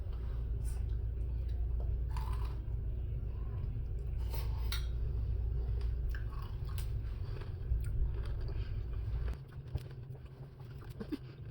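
Crunchy chewing of granola and yogurt, with a spoon clinking and scraping against a bowl in short clicks. A steady low hum underneath stops about nine seconds in.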